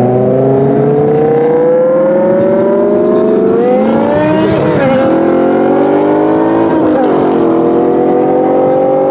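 BMW M5 E60's 5.0-litre V10 with an Eisenmann race exhaust at full throttle, accelerating hard: the engine note climbs steadily through the revs and drops sharply at two upshifts, one about halfway through and one about three quarters through, climbing again after each.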